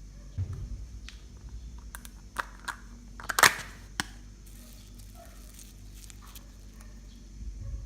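Homemade slime being squeezed and pulled by hand, giving off scattered sharp pops and crackles; the loudest pop comes about three and a half seconds in, with dull thumps near the start and end.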